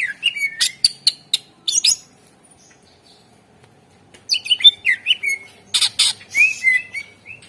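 Cucak ijo (greater green leafbird) singing in two bursts of quick, slurred whistles laced with sharp, rasping clicks, with a pause of about two seconds between them.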